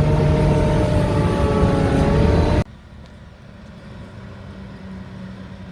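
Sherp 10x10 all-terrain vehicle's engine running steadily at a loud, even note. About two and a half seconds in, the sound cuts off abruptly to a much quieter, lower engine hum.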